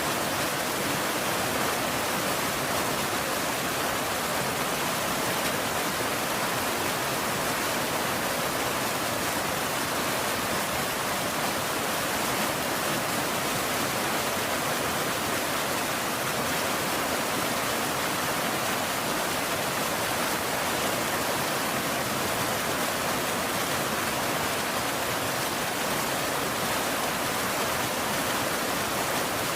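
Steady rain falling, an even hiss with no single drops, thunder or changes standing out.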